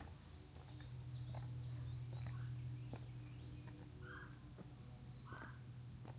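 Outdoor woodland ambience: a steady high insect trill over a low steady hum, with footsteps on a trail. A few short bird calls come in, two of them about four and five seconds in.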